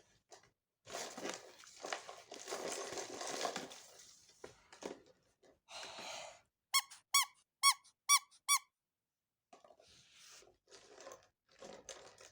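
Handling and rustling of a toy washing machine, then six short, identical high chirps in about two seconds, each dipping slightly in pitch, from the toy's electronic signal after its wash has finished.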